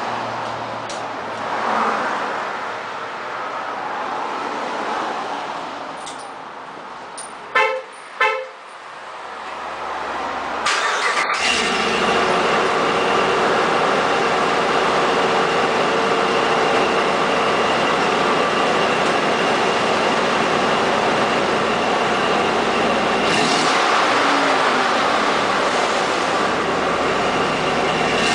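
Two short vehicle horn beeps close together, then about ten seconds later a vehicle engine starts running steadily and keeps running.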